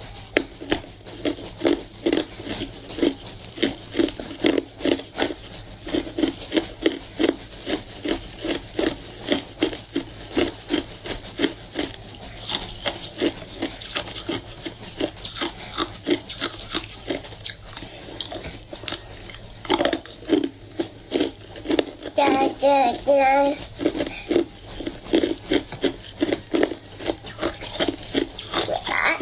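Hard frozen ice being bitten and chewed close to the microphone, giving sharp crunches a few times a second.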